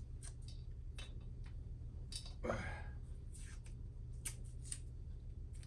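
Scattered light clicks and short scratchy scrapes of Sportster head bolts being handled and marked at the workbench, over a faint steady low hum.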